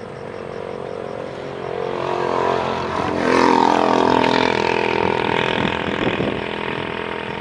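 A motor vehicle passes close by, its engine sound building to a peak about three seconds in and then falling in pitch and fading away.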